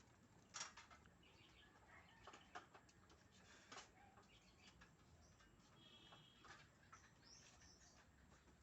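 Near silence, with scattered faint clicks and a few brief, faint bird chirps; the chainsaw is not running.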